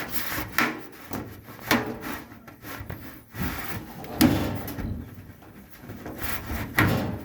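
Dryer drum being turned by hand to line up the newly fitted belt: rubbing and scraping with scattered knocks, a louder knock about four seconds in and another near the end.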